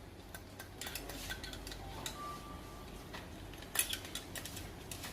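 Faint, scattered metallic clicks and clinks of valve lifters being handled and set into the lifter bores of an LS V8 block, with one sharper tap about four seconds in.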